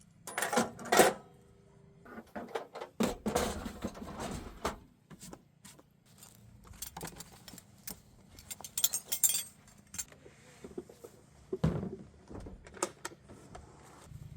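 Small metal objects clinking and jangling in irregular bursts, loudest about a second in and again around three to four seconds in, with scattered lighter clinks after.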